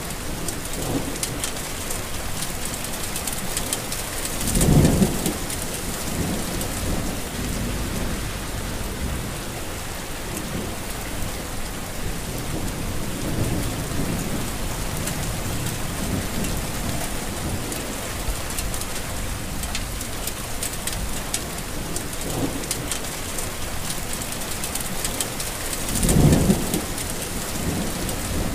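Heavy rain falling steadily, with fine patter of drops. Two brief low rumbles rise above it, about five seconds in and again near the end.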